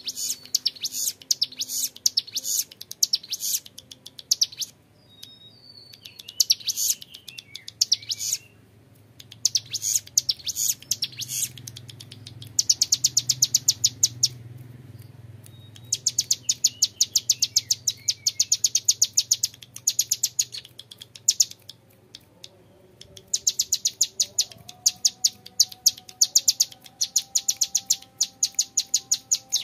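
Young male ciblek gunung (a prinia) singing its 'ngebren' song: long, clear, drill-like trills of rapid high notes, each run lasting several seconds, with short pauses between runs.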